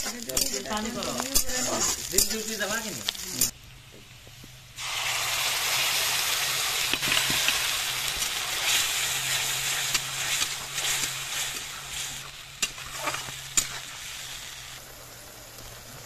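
Onions frying in oil in a metal kadai, stirred and scraped with a metal spatula; after a brief break, a loud sizzle breaks out as a wet spice paste hits the hot oil, then slowly dies down, with a few clinks of the spatula against the pan near the end.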